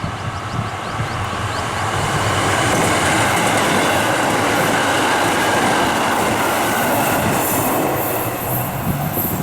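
KiHa 85 diesel express train running at speed, a steady rush of wheel, rail and engine noise that grows louder about two seconds in, with faint high squealing tones above it.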